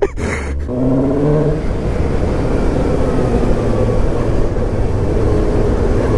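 Suzuki GSX-S750's inline-four engine running under way, its pitch climbing slowly through the second half as the bike accelerates.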